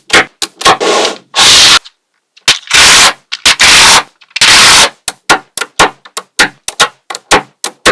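Small magnetic balls clicking as they snap together, several sharp clicks a second. About a second and a half in come four loud, hissing bursts of about half a second each, close together, before the clicking resumes.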